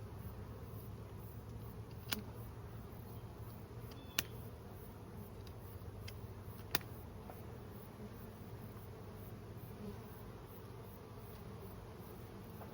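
Honeybee swarm buzzing steadily, with three sharp snips of hand pruning cutters taking small pieces off a limb, spaced two to three seconds apart.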